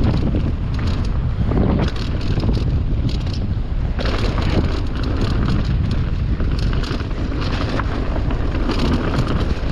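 Mountain bike riding down a dry, leaf-strewn dirt trail: steady wind rushing over the microphone, with repeated rattling and clattering as the bike runs over rough ground.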